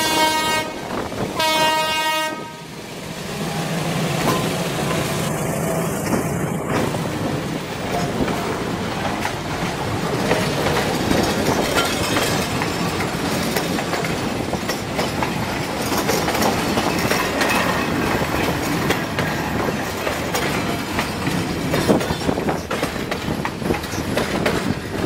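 Diesel locomotive horn sounding as a passenger train departs, a short blast at the start and a longer one about a second later. Then the GE diesel locomotive's engine drones and the train rolls past with a steady rumble and wheel clatter.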